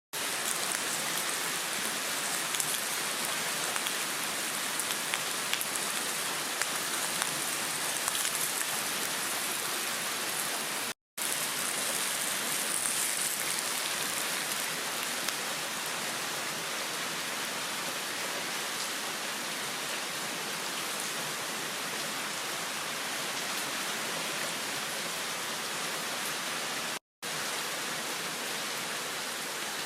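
Heavy rain falling steadily in a downpour, a dense even hiss of drops, broken twice by a brief dropout.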